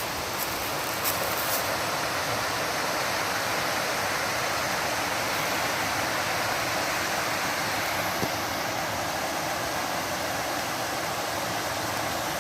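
Waterfall and creek water rushing steadily, heard from up on the hillside above the falls.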